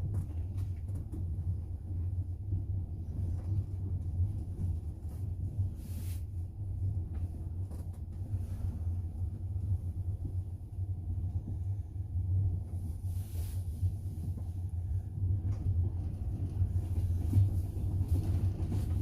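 Steady low rumble of a double-decker passenger train running on the rails, heard from inside the carriage, with a few faint brief hisses.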